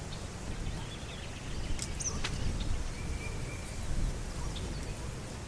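Outdoor pond-side ambience: birds chirping and calling, one holding a short high note about halfway through, over a steady low rumble.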